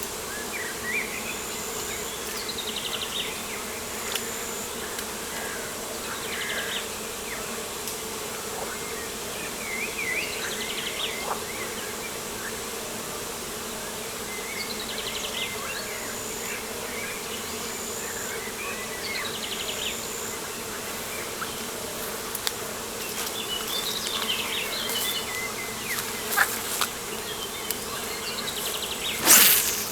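Steady buzzing hum of flying insects, with birds singing short, repeated trilled phrases every few seconds. A short loud whoosh comes near the end.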